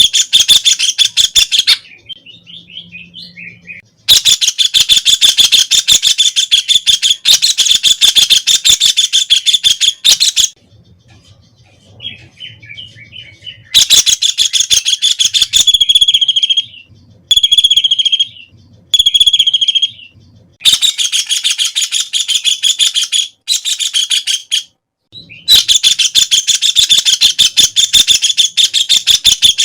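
A white-throated kingfisher calling loudly in long bouts of fast, rattling chatter, broken by short pauses. About halfway through, it gives three separate drawn-out calls.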